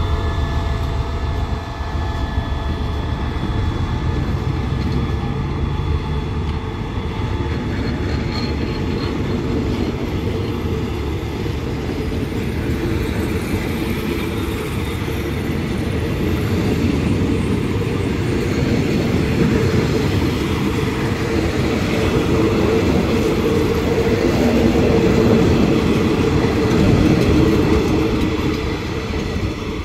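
Passenger train rolling past on the rails. The hum of the CRRC Qishuyan diesel-electric locomotive fades over the first several seconds as it moves away. Then the coaches' wheels carry on over the track in a steady rumble with clickety-clack, growing louder toward the end.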